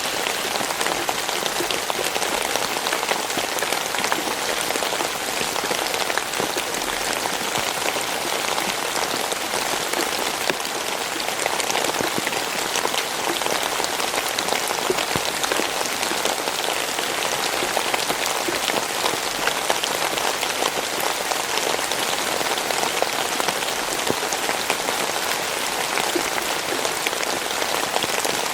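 Steady rain falling on a surface, a dense even hiss full of fine close drop ticks.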